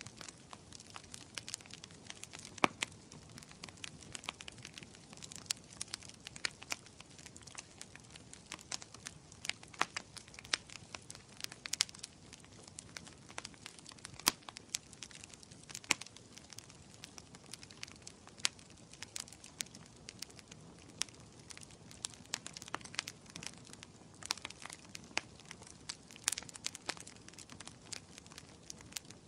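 Wood fire crackling in a fireplace: irregular sharp pops and snaps of varying loudness over a faint steady hiss of burning.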